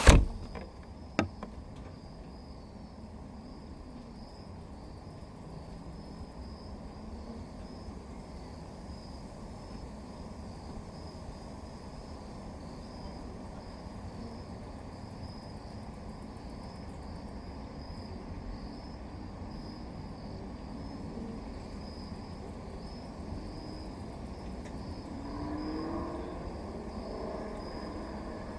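Crickets chirring steadily in a high, even trill over a low background rumble. There is a sharp click about a second in, and a rising hum near the end.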